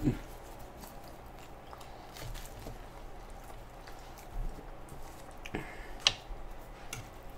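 Close-up eating sounds: chewing and wet mouth noises with scattered small clicks. About six seconds in there is one sharp clink as a metal fork is picked up off the griddle.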